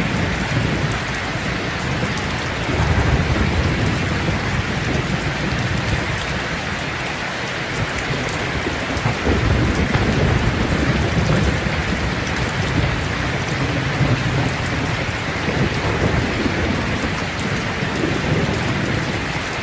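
Steady rain falling, with low rumbles of thunder that swell and fade a few times.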